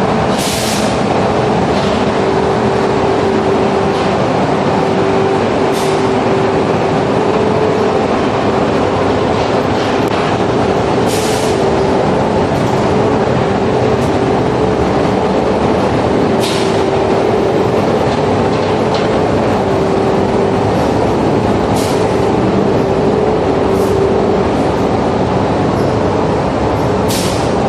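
Incineration steam boiler running: a loud, steady roar with a steady hum, and short hisses every few seconds.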